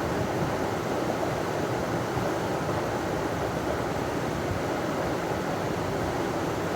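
River water pouring over a small waterfall: a steady, even rush of water.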